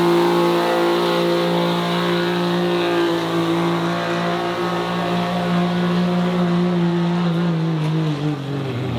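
A diesel pulling truck's engine running hard under load at a steady high pitch. Its revs sag and drop away near the end.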